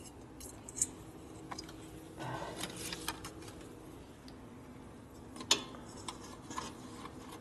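Scattered light clicks and taps of small metal clips and parts being handled while a rubber gasket is worked onto a motorcycle cowl, with a short rubbing sound about two seconds in and a sharper click about five and a half seconds in, over a faint steady hum.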